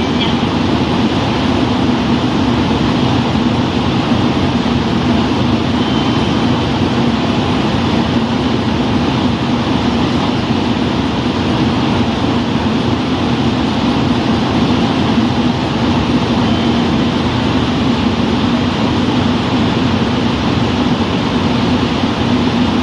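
Diesel railcar standing at the platform with its engine idling, a steady low hum and drone that holds even throughout.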